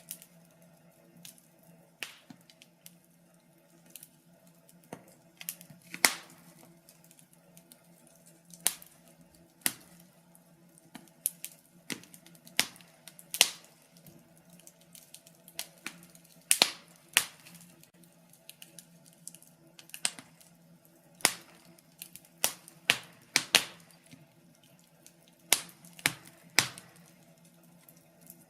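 Wood fire burning in a fireplace, crackling with irregular sharp pops and snaps, some much louder than others, at times a few in quick succession.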